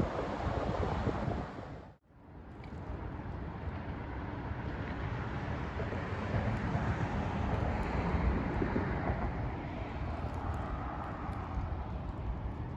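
Steady outdoor noise with wind buffeting the microphone. It fades out to near silence for a moment about two seconds in, then comes back.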